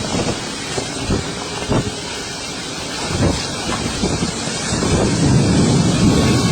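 Wind gusting and buffeting the microphone in a series of low, swelling rushes, growing stronger about five seconds in.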